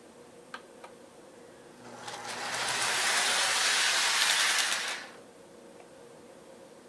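Lionel O-gauge Union Pacific NW2 switcher model locomotive running past on the track: a whirring hiss of its motor and wheels that swells over about a second, holds for about three seconds and fades away quickly. Two faint clicks come before it.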